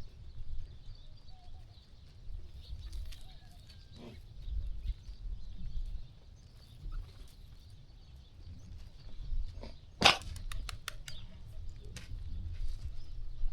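Sheep farm ambience: a fluctuating low rumble with faint bird chirps. About ten seconds in comes a sharp crack followed by a quick rattle of clicks, the loudest sound here.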